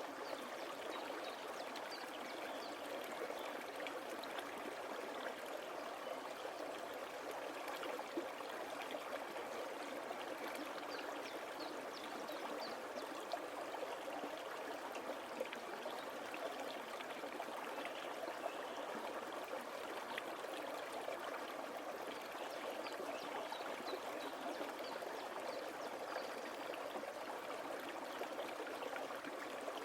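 A small forest stream flowing steadily over stones, a continuous trickling and splashing rush, with faint high chirps of woodland birds now and then.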